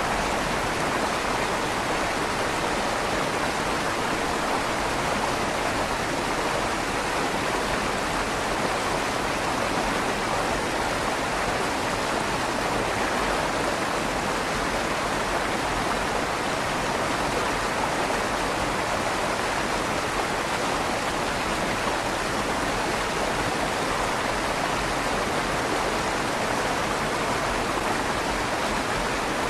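River water flowing steadily through the tunnel under a stone bridge, an even rushing with a slight echo off the stone.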